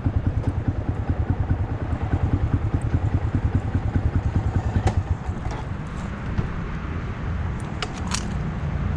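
Honda Monkey's single-cylinder engine idling with a fast, even pulse. About five seconds in the pulsing stops, leaving a quieter steady low rumble, and there are a few sharp clicks near the end.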